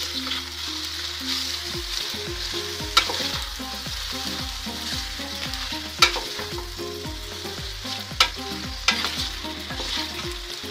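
Boiled noodles stirred and tossed in hot oil in a stainless steel pot, with a steady sizzle of frying. A few sharp knocks of the stirring spatula against the pot, about 3, 6 and 8 seconds in.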